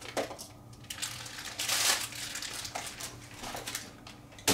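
Packaging crinkling and rustling as kit parts are unwrapped, with a few small clicks, loudest about two seconds in, and a sharp knock at the end.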